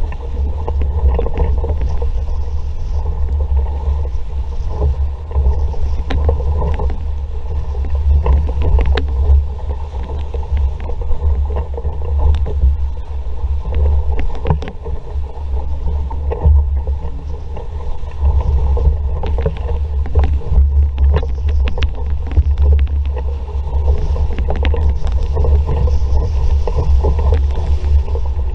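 An RS Vareo sailing dinghy under way in a fresh breeze: a heavy wind rumble on the microphone over water rushing past the hull, with scattered short knocks and splashes.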